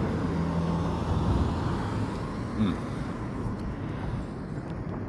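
Thunder rumbling low and rolling away, fading gradually, over a faint steady low hum.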